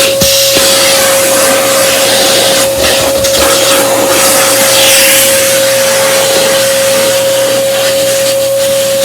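Kenmore Progressive upright vacuum cleaner running, its motor holding one steady whine over a loud rush of air.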